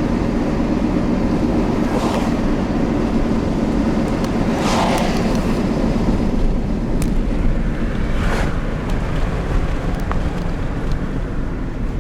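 Steady road and engine noise of a car driving, with three swells of passing-traffic noise about two, five and eight seconds in.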